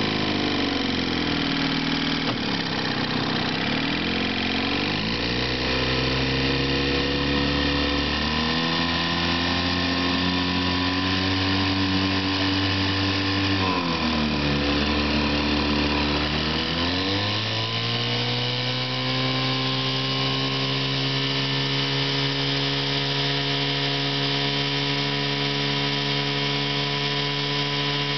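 1955 Johnson CD-12 5.5 hp two-cylinder two-stroke outboard motor running. Its speed drops and picks up again a few times, then settles into a steady, faster run about two-thirds of the way in.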